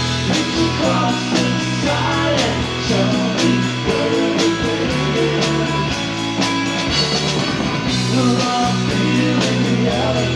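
Live rock band playing an instrumental passage: electric guitars over bass guitar and a drum kit keeping a steady beat.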